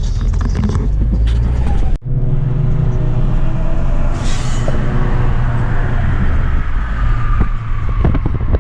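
Volkswagen GTI's turbocharged four-cylinder engine and road noise while driving, a steady low rumble. After a sudden break about two seconds in, the engine note slowly falls in pitch as the car eases off.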